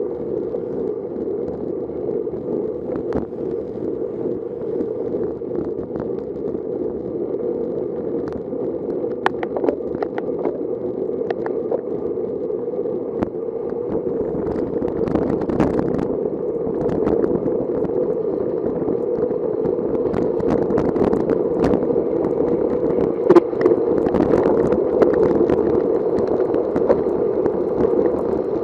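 Wind rushing over the microphone of a camera on a moving bicycle, with scattered sharp ticks and clicks; the rush grows louder over the second half as the bike gathers speed.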